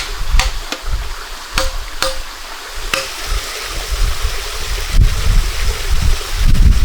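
Several sharp knocks, about six in the first three seconds, some with a short ring, over a steady rush of flowing water; a low rumble builds near the end.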